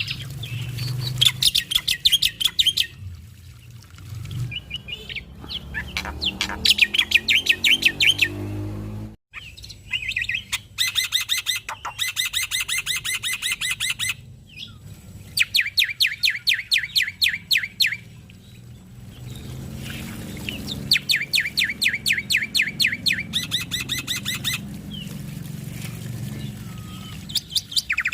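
Male black-winged myna (jalak putih) singing in full voice: bursts of several seconds of rapid, rattling, repeated high notes, with short pauses between them. A low steady hum runs underneath.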